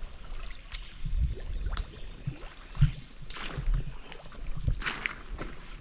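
Footsteps and clothing or gear rustling as hunters walk slowly through grass and brush, with irregular soft thuds. A few short high chirps come through now and then.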